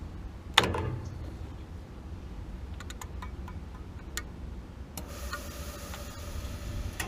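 Gas water heater at its burner: a sharp metallic clack about half a second in, a few light clicks, then a steady hiss starting about five seconds in.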